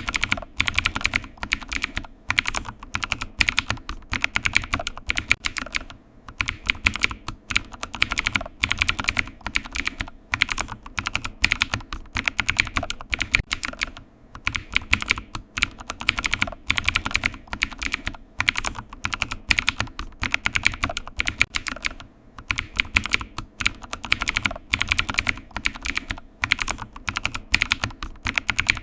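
Typing on a computer keyboard: quick runs of key clicks broken by short pauses every second or two.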